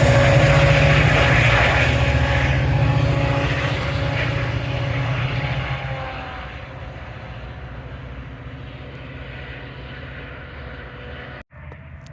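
Train passing and moving away: a loud, steady engine rumble with a hum over it, dying down about six seconds in to a lower background noise. The sound cuts out for a moment near the end.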